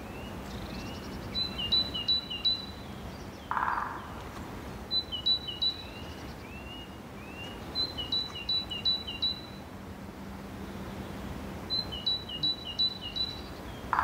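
A songbird singing the same short phrase four times, a few seconds apart: a quick run of high notes alternating between two pitches. Steady outdoor background noise underneath.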